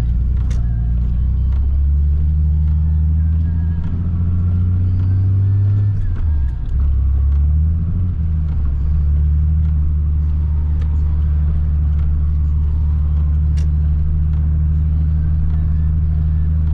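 Nissan 300ZX's V6 engine running steadily with a low hum, heard from inside the cabin while driving. About six seconds in its pitch drops and the sound dips briefly, then it picks up again and runs on steadily.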